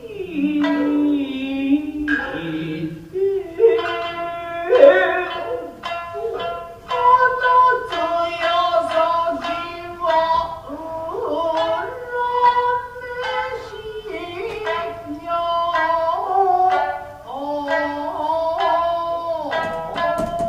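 Traditional Japanese dance music: plucked shamisen notes with long held melodic notes over them, playing continuously.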